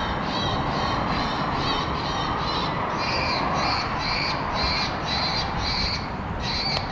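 A bird calling over and over, about two short, sharp calls a second, louder from about three seconds in, over a steady rush of wind noise on the microphone.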